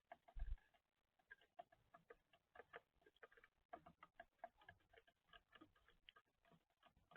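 Faint, irregular short ticks and chirps, several a second, from small birds at a feeder.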